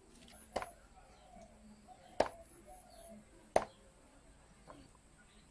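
A knife chopping down onto a cutting board: three sharp chops about a second and a half apart, then a fainter knock.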